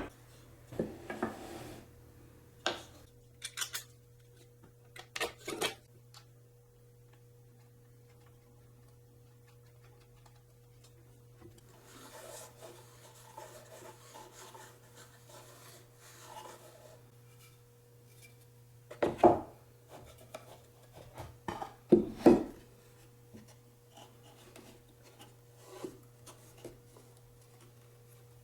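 Scattered wooden knocks and clatter as pieces of wood are handled, with a few seconds of rubbing and scraping a little before the middle. The loudest knocks come about two-thirds of the way through, over a steady low hum.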